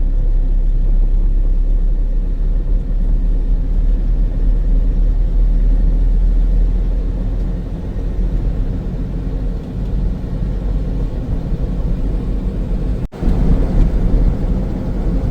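Steady low rumble of a vehicle driving, with a brief break about 13 seconds in.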